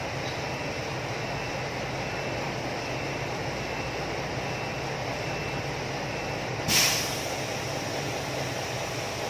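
Steady rumbling background noise, with one short, sharp burst of hiss about two-thirds of the way through.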